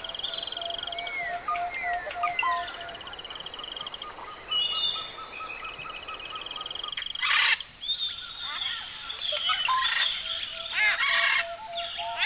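Bird chorus of chirps, whistles and repeated buzzy trills over a steady pulsing background. Two loud harsh squawks come about seven and eleven seconds in, typical of parrots.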